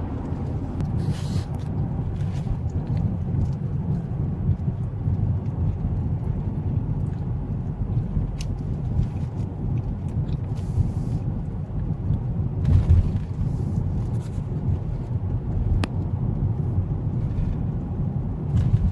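Steady low road and engine rumble inside a moving car's cabin, with a few light knocks.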